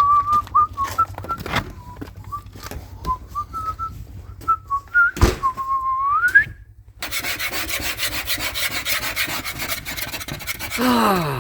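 A person whistling a wandering tune, the notes hopping and gliding, for about six seconds. Then a rhythmic scratchy rubbing, like scrubbing or rasping, for about four seconds, and a short tone falling in pitch at the very end.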